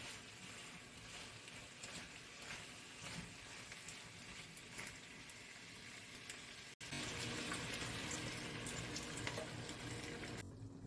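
Food sizzling and crackling in a frying pan, cutting about two-thirds through to a louder, denser stretch of sizzling.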